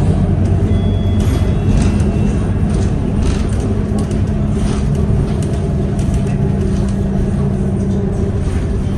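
A city bus's engine running steadily, heard from inside the passenger cabin, a low drone with a steady pitched hum, mixed with scattered rattles and clicks. A brief thin high whine comes in about a second in.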